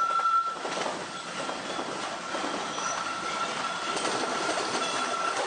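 Electric commuter train rolling past on curving track through a set of points, its wheels giving a steady high squeal over the running noise.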